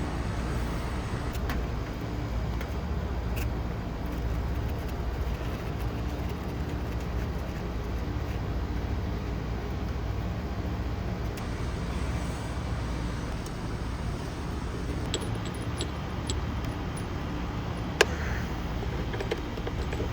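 A steady low machinery hum with a fixed pitch, under a noisy outdoor background. Near the end come a few light metallic clicks and one sharp tap, as fittings and tools are handled.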